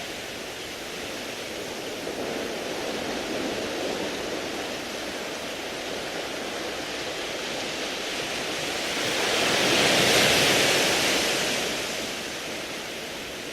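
Sea waves washing over a beach of round pebbles: a steady wash, with one wave swelling and breaking about ten seconds in, its hiss dying away over the next two seconds.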